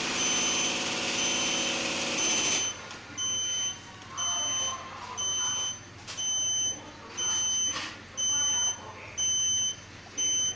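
Electronic beeper sounding short, even beeps about once a second. An engine running beneath the beeps cuts off about two and a half seconds in.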